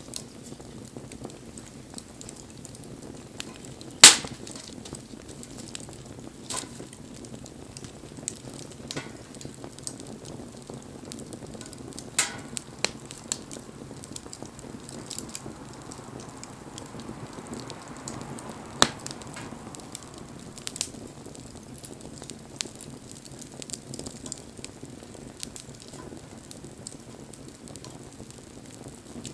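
Wood fire burning with a steady soft crackle and scattered sharp pops, the loudest about four seconds in.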